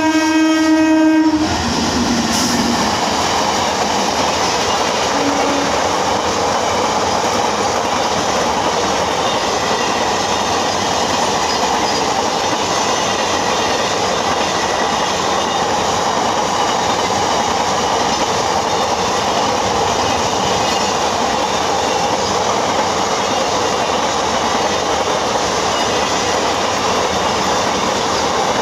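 Indian Railways container freight train (bogie low container wagons) passing: a locomotive horn sounds and cuts off about a second in, followed by the steady rolling and rattling of the wagons on the rails.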